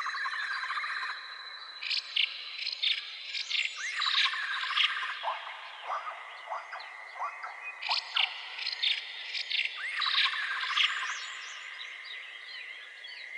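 Birds chirping and calling, many short notes, over a steady high trill.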